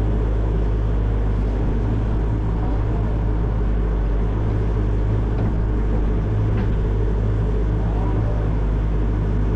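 Excavator's diesel engine running steadily, a constant low drone with no change in revs.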